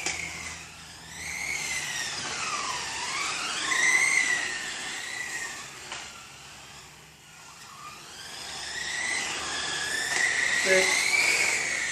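Two 1/10-scale RC racing cars with high-pitched electric motor whines, the pitch sweeping up and down as they speed up and slow for corners. The sound grows louder twice as the cars come past.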